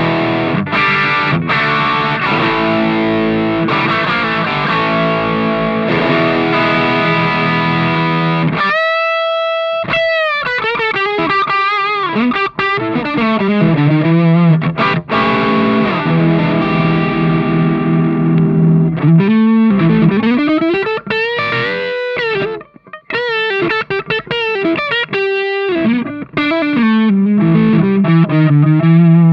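Electric guitar played through the overdrive section of a Mooer Red Truck multi-effects pedal, giving a distorted tone. Chords come first, then about nine seconds in a held note with vibrato, bending lead lines, and more chord riffs.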